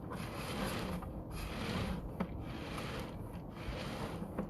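Sewer inspection camera's push cable being fed into a drain line, a rubbing, scraping noise in uneven strokes with short breaks between them.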